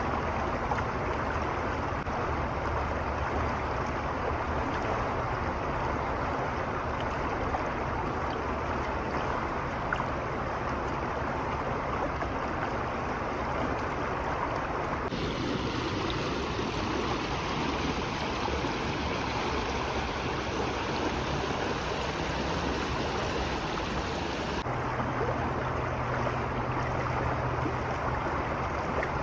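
Steady rushing of running water from a stream, its tone changing abruptly about halfway through and again near the end.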